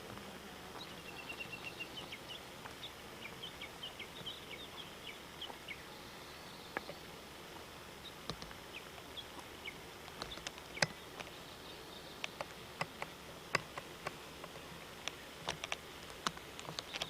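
Quiet open-air ambience with a run of short, high chirps over the first six seconds or so, then a scattering of sharp clicks.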